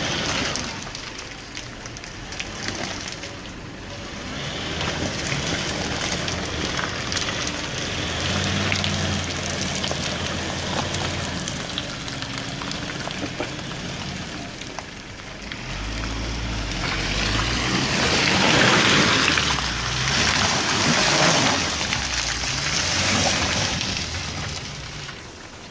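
Engine of a 4WD pickup truck working hard on a slippery hill climb. It grows loudest in the second half, where a strong low engine note sits under a dense hissing noise.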